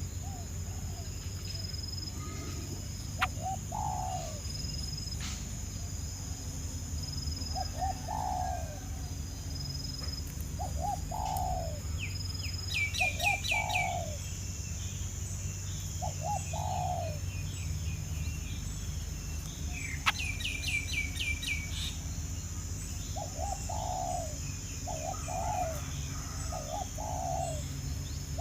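Birds calling: short, low, falling notes repeated in twos and threes throughout, with two quick series of high chirps, one about halfway through and another about three-quarters in. A steady high insect buzz runs behind.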